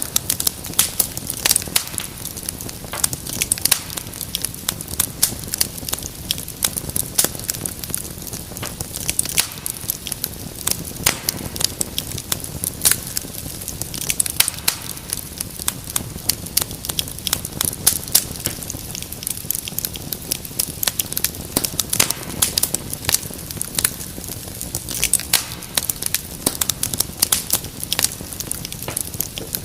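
Wood fire crackling and popping continuously, with dense irregular snaps over a low steady rumble of the flames.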